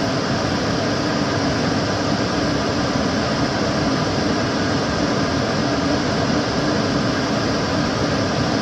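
Kitchen cooker hood extractor fan running steadily, a constant rushing of air with a low hum.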